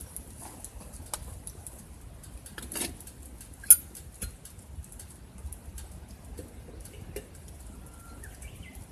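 Scattered small clicks and taps over a low rumble, with one sharp click about four seconds in, and a short rising chirp near the end.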